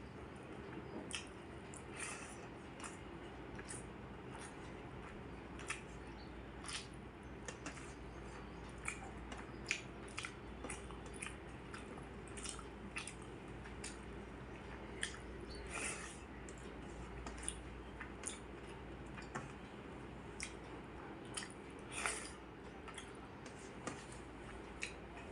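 A person chewing and eating rice with side dishes close to the microphone, with irregular wet mouth clicks and smacks a few times a second.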